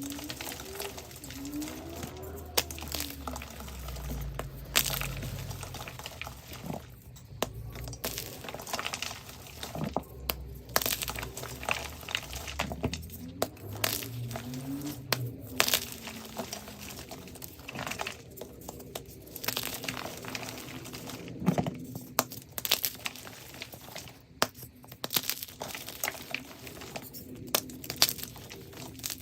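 Gym chalk being crushed and crumbled: a continuous run of crunchy crackles with sharp snaps scattered throughout.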